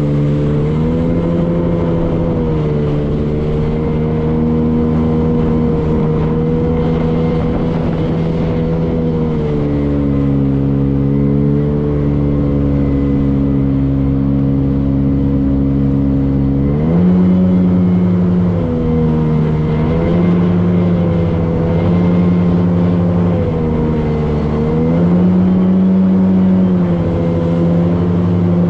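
Motorboat engine running under way. Its pitch holds steady for long stretches and rises and falls several times as the throttle changes, with a low rumble underneath.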